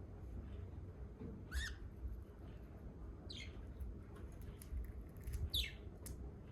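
Budgie chicks giving three short, sharp calls a second or two apart, each sliding in pitch, with faint clicks between them.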